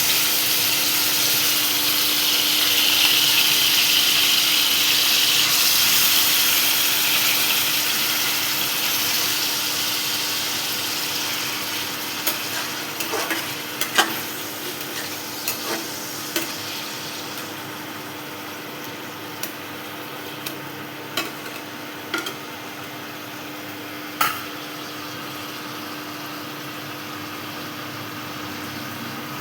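Sliced onions sizzling in hot oil in a kadai: a loud hiss at first that slowly settles over the first ten seconds or so. In the second half a spatula clicks and scrapes against the pan now and then as the onions are stirred.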